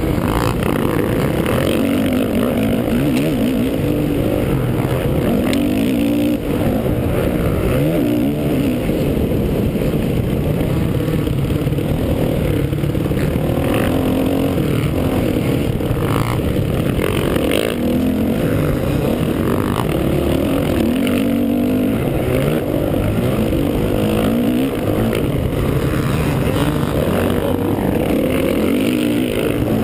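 Honda 450 motocross bike's single-cylinder four-stroke engine, heard from on board, revving hard and falling back over and over as the rider races the track. A few knocks and rattles from the bike over the bumps.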